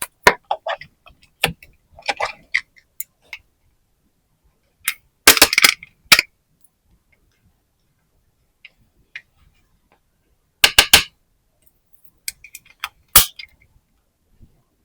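Small plastic toy pieces and packaging being handled: scattered clicks and taps, two short bursts of crackling, and a sharp snap about thirteen seconds in, with quiet gaps between.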